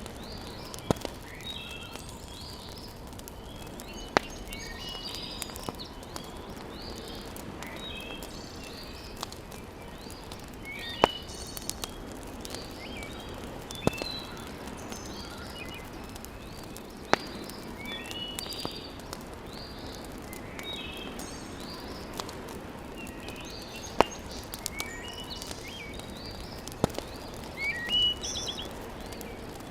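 Wood fire burning in a fireplace, with single sharp pops every few seconds over a steady low crackle, while birds chirp repeatedly.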